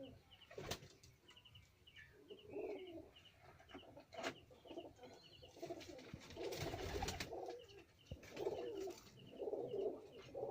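Domestic pigeons cooing, several low warbling coos one after another, with thin high chirps in small groups behind them. A few sharp knocks are heard, one about four seconds in.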